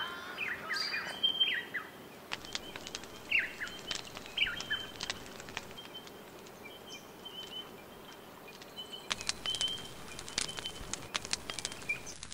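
Quiet outdoor ambience with short falling bird chirps during the first half, then a quick run of light clicks and taps from about nine seconds in.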